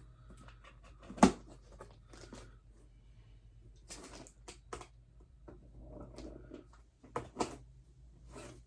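Packaging and unboxed items being handled, with rustling and a few knocks and clicks. A sharp knock about a second in is the loudest.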